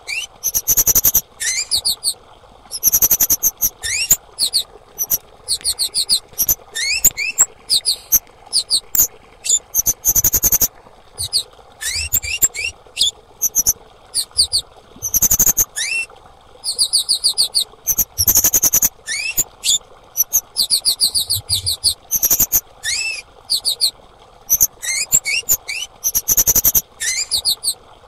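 Female kemade calling: bouts of rapid, very high chirps with short rising whistled notes, repeated every second or two.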